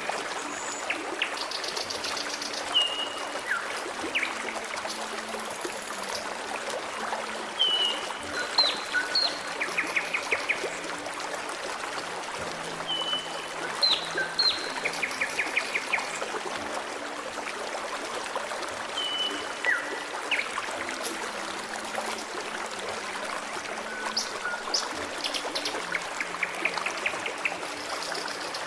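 Forest stream trickling and babbling steadily, with songbirds calling over it: short whistled notes, downward-sliding calls and quick rattling trills that come back every few seconds.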